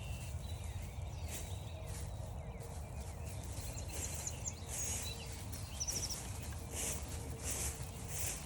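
Footsteps crunching through frost-stiffened grass, about a step and a half a second in the second half, over a steady low rumble. Small birds call with thin notes and short trills in the background.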